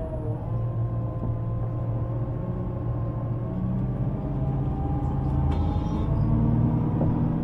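City bus heard from inside, its engine and drivetrain running with a steady low rumble and humming tones that drift slowly in pitch.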